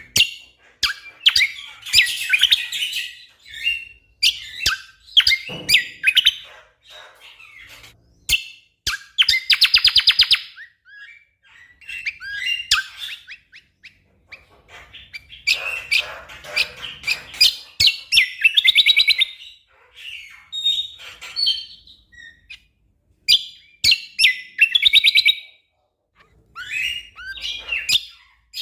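A cucak kombo (kecial kombok) songbird singing a fast, varied song. Sharp chirps and whistles come in bursts, broken by dense rapid-fire trills several times, the tight 'tembakan' phrases prized in songbird contests.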